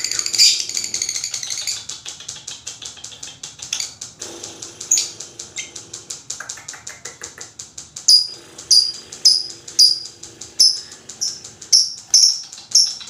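Lovebird chattering in a long, rapid trill (the 'ngekek' that lovebird keepers prize), fast enough to sound like a buzzing rattle. About eight seconds in it turns to sharp, high, falling chirps repeated about twice a second.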